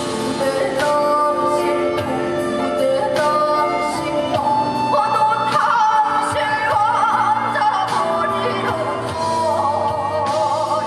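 A woman singing a Korean folk song live with band accompaniment, the sung melody wavering with vibrato and most prominent in the second half.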